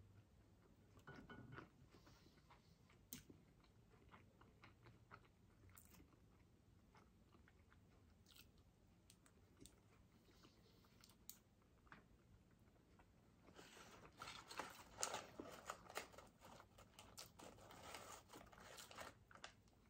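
Faint chewing and small mouth clicks from eating McDonald's fries, then a denser stretch of crackling about two-thirds in as the hamburger's paper wrapper is handled.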